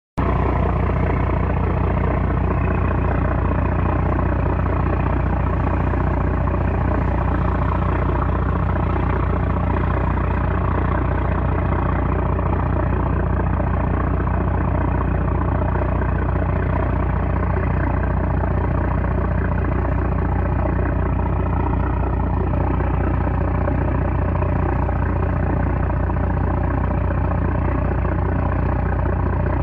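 A 960-horsepower trawler's diesel engine running steadily under load: a loud, unbroken low drone with steady hum tones stacked above it.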